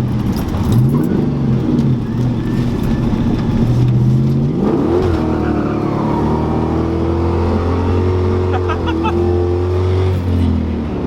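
Ford Mustang 4.6-litre V8 being driven hard, heard from inside the car. The engine revs up sharply about five seconds in, holds at high revs, then eases off near the end.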